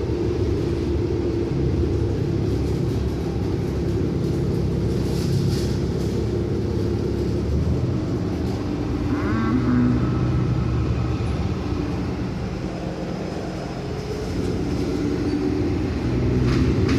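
City bus engine running with steady road rumble, heard from inside the passenger cabin. A brief rising tone sounds a little past halfway through.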